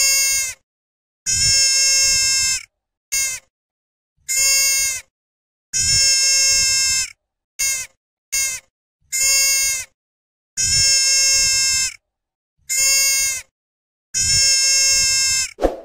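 Deer calling: a series of about ten nasal bleats of steady pitch, short ones alternating with longer ones of a second or more, each cut off into complete silence between calls.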